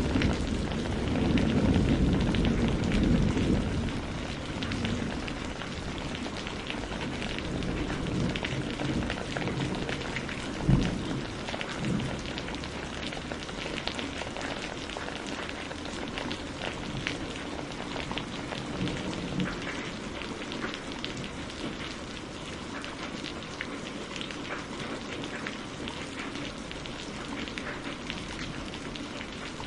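Steady rain falling, with the patter of individual drops. Low thunder rumbles in the first few seconds and fades away, and a single short low thump comes about a third of the way through.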